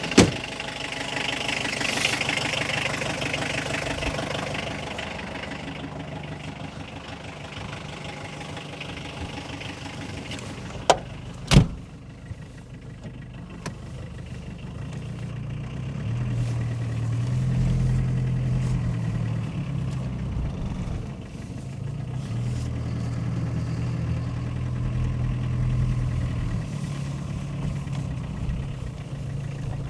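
Car engine running, mostly at idle, its low note swelling twice as the car is moved; two sharp knocks about eleven seconds in.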